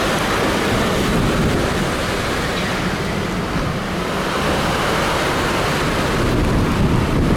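Hurricane Helene's winds blowing hard, a steady loud rush with wind buffeting the microphone.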